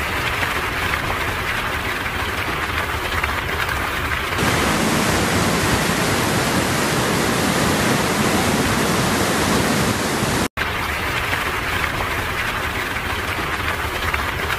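Steady, loud rushing of water from heavy rain and flooding, changing abruptly about four seconds in and again with a brief dropout near ten and a half seconds, where one clip cuts to the next.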